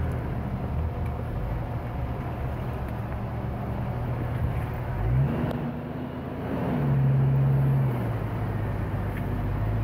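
Jeep Cherokee engine running under way over rough ground. The revs climb about five seconds in, the engine is loudest from about seven to eight seconds, then it eases back.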